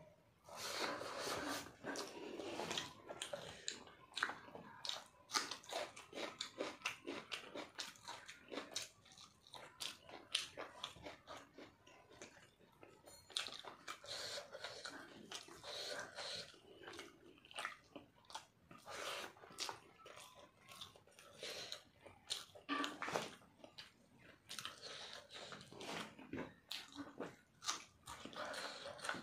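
A person chewing a mouthful of chicken curry and rice, eaten by hand: a constant run of irregular wet clicks and smacks from the mouth.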